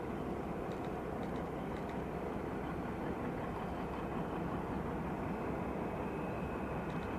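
Boeing VC-25A (Air Force One) with its four jet engines running, heard at a distance as a steady, even rumble with a faint high whine.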